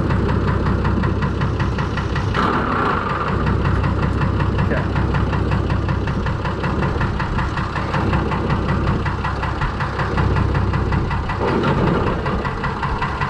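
Fordson Major tractor's swapped-in six-cylinder Perkins diesel engine running steadily with an even, rapid firing beat, the tone shifting slightly about two seconds in.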